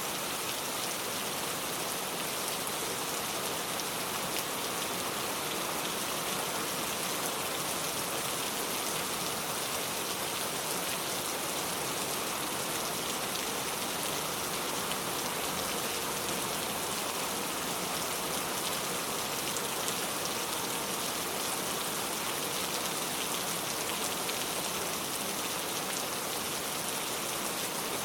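Steady rain falling, an even, dense hiss of many drops on surfaces with no break or change.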